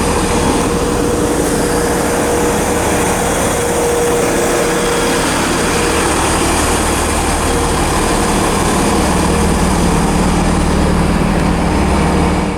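Class 166 Turbo diesel multiple unit drawing into the platform, its diesel engines running loud and steady over a haze of wheel and rail noise. A steady high whine runs through the first half, and the low engine note strengthens in the last few seconds.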